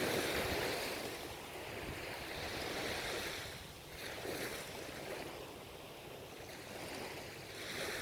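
Ocean surf washing onto the shore, a steady hiss of breaking water that swells and ebbs as several waves come in one after another.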